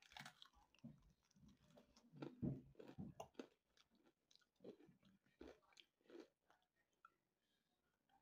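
A person biting and chewing fried chicken wings close to the microphone: quiet, irregular mouth clicks and smacks, loudest a couple of seconds in.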